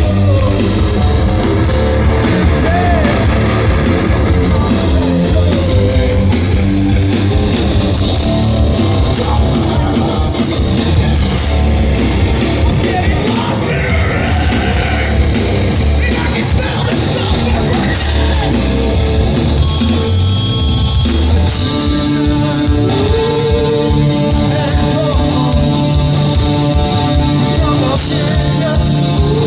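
Live heavy rock band playing loud: distorted electric guitars, bass and drum kit, with sung and yelled vocals.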